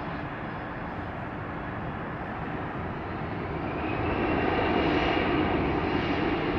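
Jet airliner coming in to land, its engine noise growing louder from about halfway through, with a high whine that rises a little and then holds.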